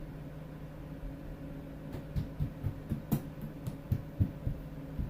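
Steady low hum with a run of about a dozen light knocks and taps at uneven spacing, starting about two seconds in.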